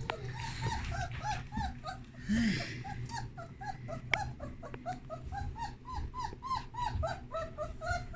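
German Shepherd puppy whimpering: a steady string of short, high squeaky cries, about three a second.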